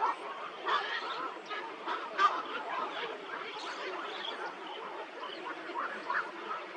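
A flock of birds calling, with many short, overlapping calls throughout. The loudest calls come at the very start and about two seconds in.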